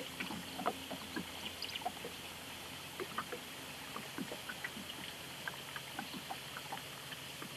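Small irregular water drips and splashes around a kayak on the river, over a steady faint hiss.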